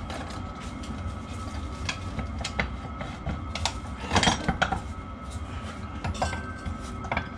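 Metal parts and tools clinking and knocking as they are handled on a workbench, with a cluster of louder clinks about four seconds in, over a steady low hum.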